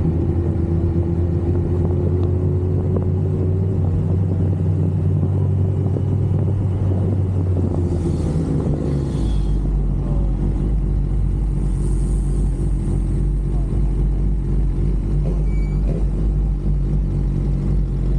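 Sport-bike inline-four engine running steadily. About halfway through, its note drops to a lower, steady pitch as the engine slows.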